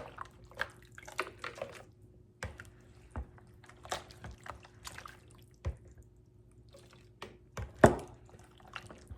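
Cooked whole chicken being pulled apart by hand in a bowl: wet squelching and dripping juices with scattered small taps and clicks, the loudest about eight seconds in.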